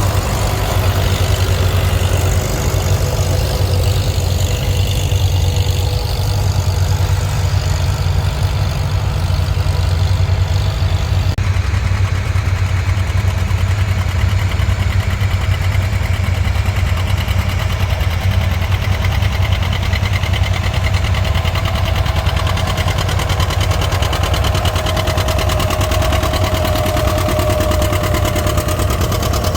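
Tractor engine running steadily at an even, low pitch; the sound changes abruptly about eleven seconds in.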